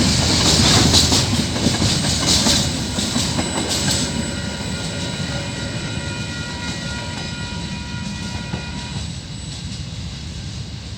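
KiwiRail freight train's wagons rolling past with wheels clacking over rail joints, loudest in the first few seconds and then fading as the train moves away. A few steady high tones ring faintly in the middle.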